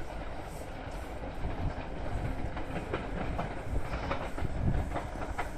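Electric-locomotive-hauled double-deck passenger train rolling through the station, a low rumble with a run of sharp clicks from the wheels crossing rail joints in the second half.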